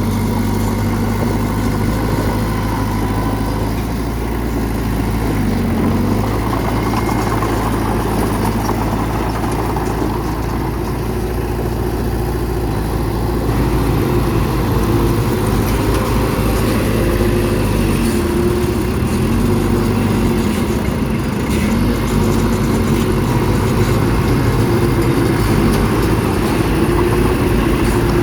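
Heavy earthmoving machine's diesel engine running steadily, its pitch dipping briefly about five seconds in and shifting again a few times later.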